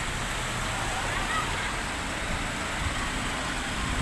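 Steady wash of noise from a rain-soaked street: heavy rain mixed with passing traffic.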